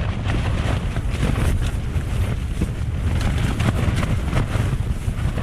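Strong wind gusting against a tent, the fabric flapping with many quick snaps over a heavy rumble of wind on the microphone.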